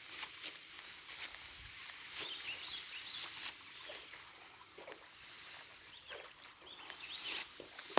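Outdoor field ambience: a steady high hiss with faint bird chirps and scattered short rustling clicks.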